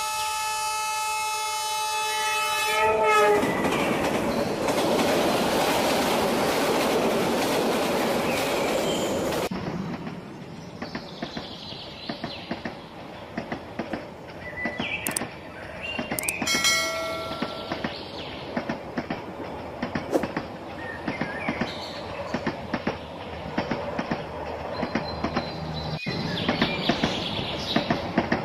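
A train horn blowing a chord for about three seconds, then the rumble and clickety-clack of rolling train wheels, with a brief second horn toot about seventeen seconds in.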